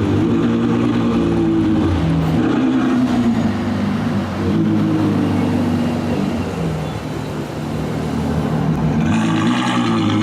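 Loud sports car exhaust, the engine running and revving with its pitch shifting up and down; it turns harsher and brighter about nine seconds in.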